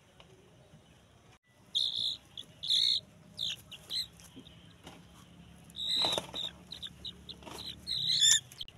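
A run of short, high-pitched bird chirps and squeaks in irregular bursts, loudest near the end.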